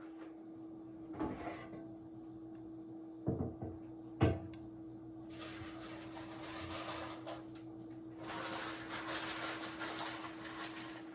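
Three short knocks, then two longer stretches of scraping and rustling, over a steady hum.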